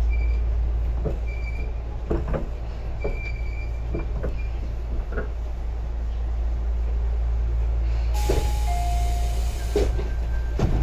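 Tobu 10030 series electric train running, heard from inside the carriage as it comes into a station: a steady low rumble with wheel clacks over rail joints about once a second. About eight seconds in, a hiss of air lasts about two seconds.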